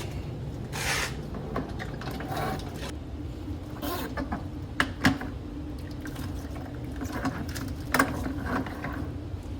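Water draining from a tankless water heater's opened drain lines through hoses into a bucket, a steady flow, with several sharp clicks and knocks of fittings being handled, the loudest about five seconds in and again near eight seconds.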